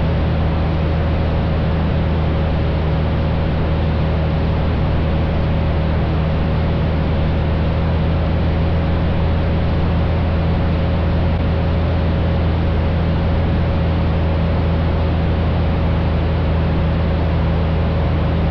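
Cessna 172's six-cylinder Continental O-300 engine and propeller, heard inside the cockpit: a steady drone at reduced power on the approach to landing, with a thin steady whine above it.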